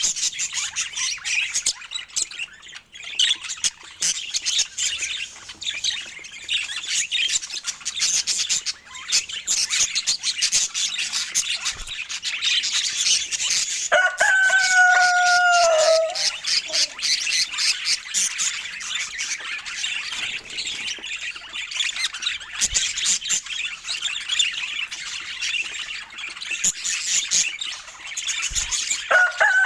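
Budgies chattering and warbling in a fast, continuous stream of high chirps. Twice, about halfway through and again at the end, a lower, held call lasts about two seconds and dips in pitch as it ends.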